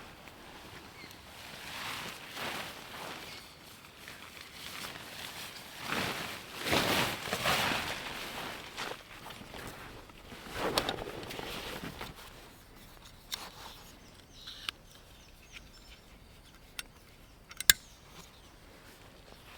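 Footsteps and rustling on the forest floor in several swells, then a few sharp clicks, the loudest a little before the end.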